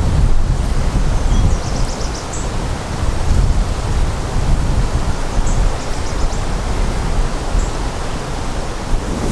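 Wind buffeting the microphone: a steady rushing with a heavy low rumble that swells and eases in gusts.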